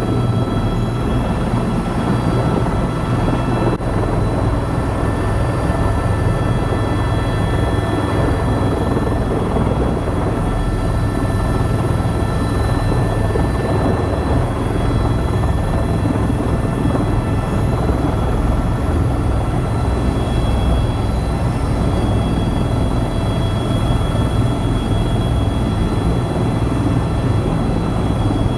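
Airbus EC130 EcoStar tour helicopter running steadily in flight: an unbroken low drone of rotor and engine, with a constant high whine above it.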